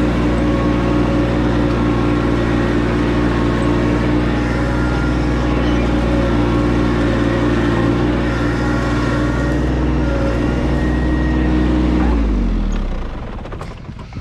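Case C60 tractor engine running steadily under load. About twelve seconds in the pitch falls and the sound fades as the engine is throttled back.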